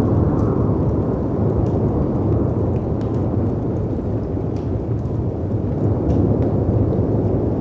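Storm ambience of howling wind and sea waves breaking against rocks: a continuous low rumble that swells and eases, with faint crackles and pops from a fireplace scattered over it.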